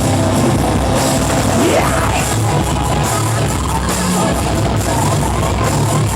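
Live heavy rock band playing loudly: distorted electric guitar, bass and drum kit, with a singer's voice.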